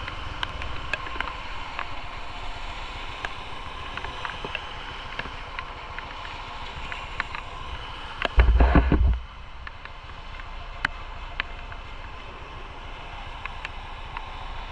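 Steady engine and wind noise of a motorcycle ride, heard from a camera on the moving bike, with scattered light ticks. About eight seconds in, a loud low rumble of wind buffeting the microphone lasts under a second.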